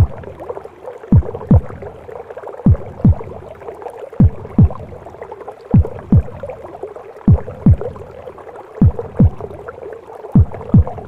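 Mother's heartbeat as heard from inside the womb: slow paired lub-dub thumps, about one pair every second and a half, over a steady muffled whooshing womb noise.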